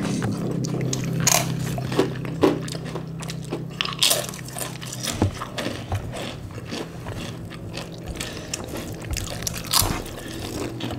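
Close-up eating sounds: chewing with sharp crunches of fried crackers, a few strong crunches scattered through, over a steady low hum.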